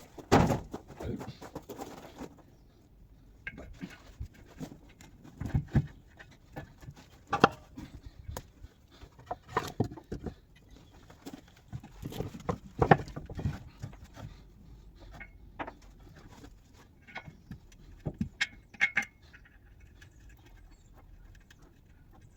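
Irregular knocks, clinks and rattles of metal parts and hand tools being handled, some strokes sharp and loud, with quieter gaps between.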